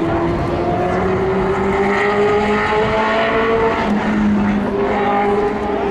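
Lightning sprint car engine running hard on a dirt oval, its pitch climbing slowly as it accelerates, then dropping about four seconds in as it lifts off, before picking up again near the end.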